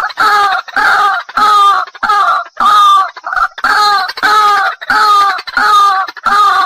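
White-breasted waterhen lure call: a loud, harsh, pitched note repeated evenly, just under two calls a second.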